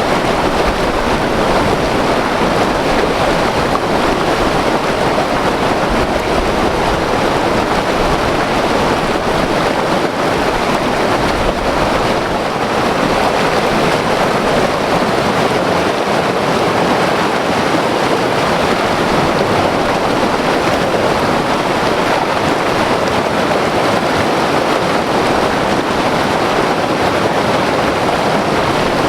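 White water river rushing over rocks: a loud, steady roar of churning water with no breaks. Wind buffets the microphone at times.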